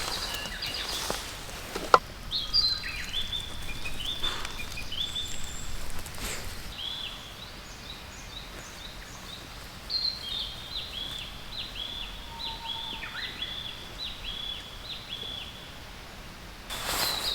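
A small bird singing in two runs of short, quick, downward-slurred chirps, the second run starting about halfway through, over faint outdoor background noise. A single sharp click comes about two seconds in.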